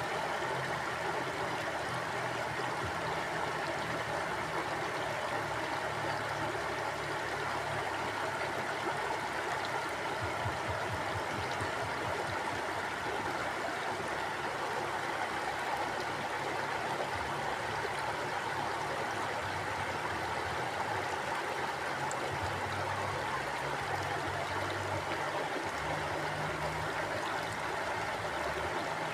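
River water flowing steadily, a constant rushing with a low rumble underneath that comes and goes.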